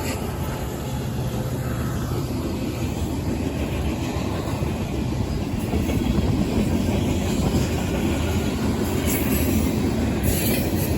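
Union Pacific manifest freight cars rolling past on the rails: a steady rumble of steel wheels with clickety-clack over the joints and short wheel squeals. It grows a little louder about six seconds in.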